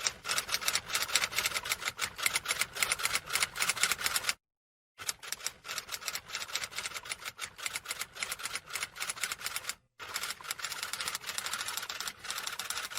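Rapid, dense clicking of keys being typed, in three runs broken by short silences about four and a half and ten seconds in.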